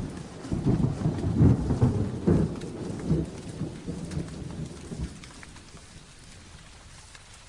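Thunder rumbling over steady rain, loudest in the first few seconds and dying away by about five seconds in, leaving the rain hiss.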